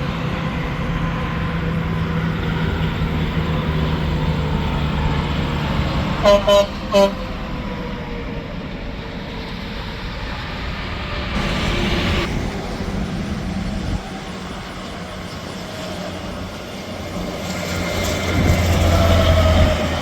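Semi trucks passing on an interstate highway, engine drone and tyre noise. About six seconds in, a truck's horn sounds three short blasts, and near the end another truck passes louder with a deep drone.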